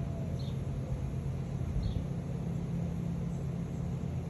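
A steady low mechanical hum, with a few faint, short bird chirps high above it.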